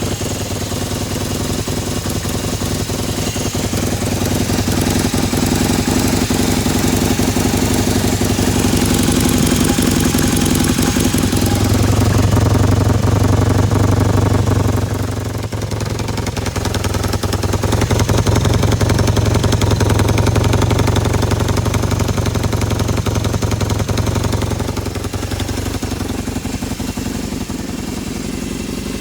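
1978 Kawasaki KZ750's parallel-twin engine idling steadily after its first start in a long time, its loudness swelling and easing back a few times.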